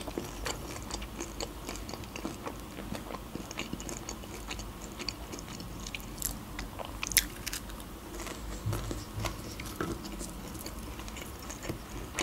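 Close-miked chewing of crispy fried food, with scattered small crunches and a few sharper crisp clicks.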